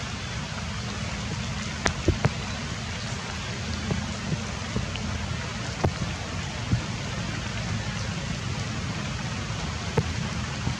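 Light rain falling steadily, with a few sharper drips standing out now and then.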